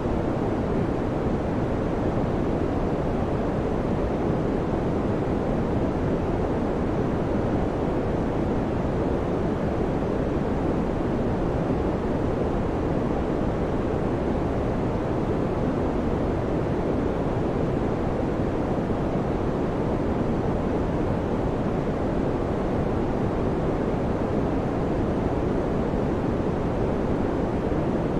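Electric fan running steadily: an even, unbroken rush of air noise, low and dull in tone, with no hum, clicks or change in level.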